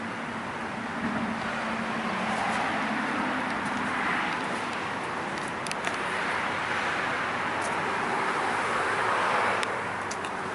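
Steady road traffic noise, with passing vehicles swelling louder about four seconds and nine seconds in.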